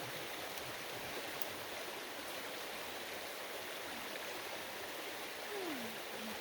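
Steady rush of fast-flowing creek water, with a short falling vocal sound near the end.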